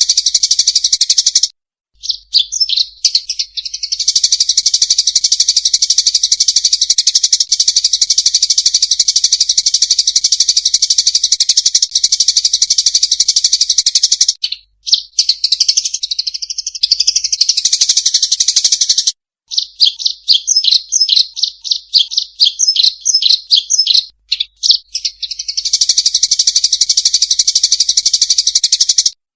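Eurasian tree sparrows giving their excited fighting chatter: a dense run of fast, high chirps that breaks off briefly a few times, with a stretch of gliding, wavering notes in the middle.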